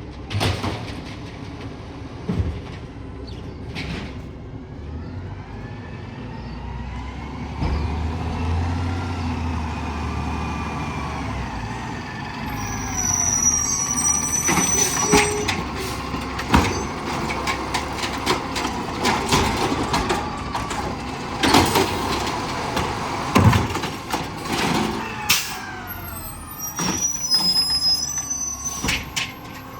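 Garbage truck at work: its engine revs up and down in long swells while sharp bangs and clatters come through the middle and later part, with high squeals in between.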